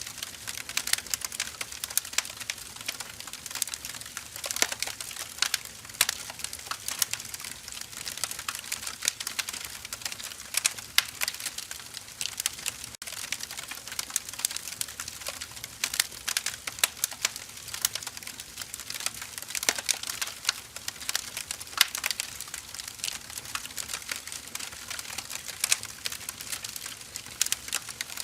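Wood fire crackling: burning firewood gives a dense, irregular run of sharp pops and snaps over a soft hiss.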